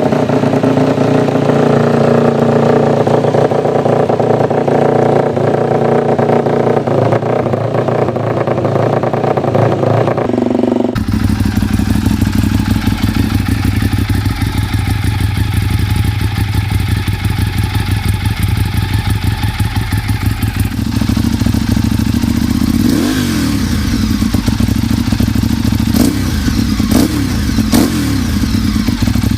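Motorcycle exhausts running, in three clips that change abruptly about 11 and 21 seconds in. In the last, the engine is blipped several times, its pitch rising and falling.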